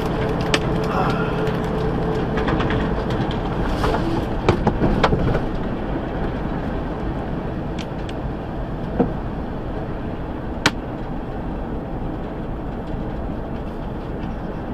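Steady rumble of a moving vehicle, with a few sharp clicks or knocks about four to five seconds in and another one later.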